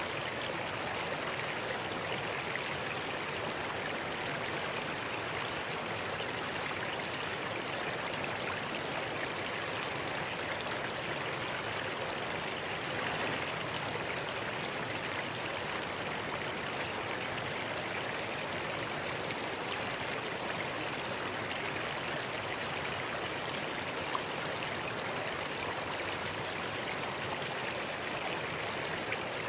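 Mountain stream rushing steadily, a constant wash of flowing water.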